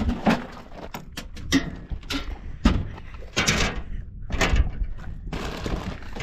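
Several knocks and clatters of objects being handled, with two short rustling bursts in the second half.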